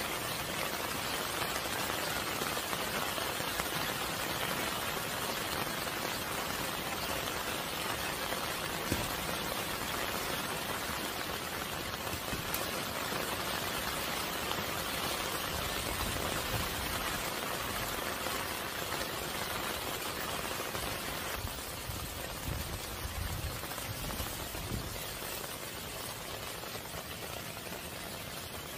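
Steady rain falling on a vegetable garden, a dense, even hiss. There is some low rumbling about two-thirds of the way through.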